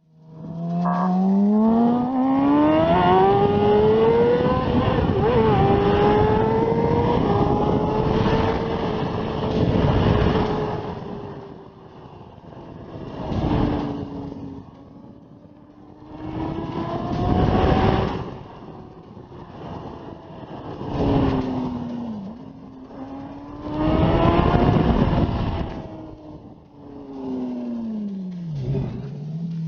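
Motorcycle engine accelerating hard, its pitch climbing steadily over the first few seconds, then revving up and down in repeated surges of throttle.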